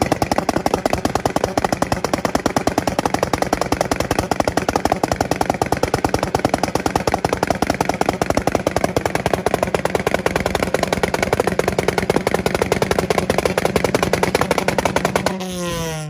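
Car engine held on a two-step launch-control rev limiter, giving a rapid, even stuttering crackle at constant revs. Near the end the throttle is released and the revs fall away.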